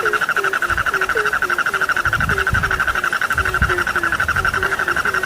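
Frog chorus: a steady, fast-pulsing trill with short low croaks repeating about twice a second, and a few low rumbles about halfway through.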